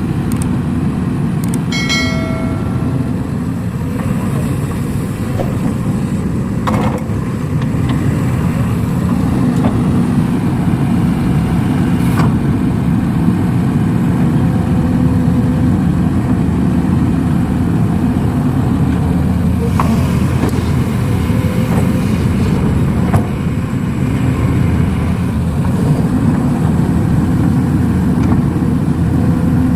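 Heavy diesel machinery running steadily, an excavator at work loading a dump truck, with a brief squeal about two seconds in and a few sharp knocks scattered through.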